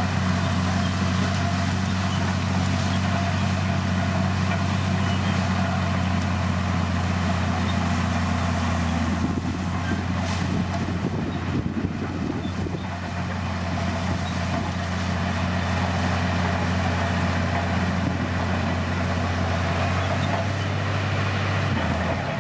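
Komatsu D60P bulldozer's diesel engine running with a steady low drone. For a few seconds around the middle the sound turns rougher and more uneven before settling again.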